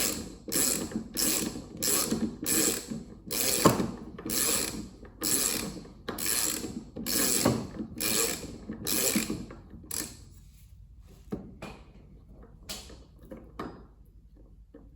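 Ratcheting wrench worked back and forth on a Ryobi 40V electric lawnmower's blade nut, a short burst of ratchet clicks about one and a half times a second for some ten seconds, then a few scattered fainter clicks. The nut is not coming loose.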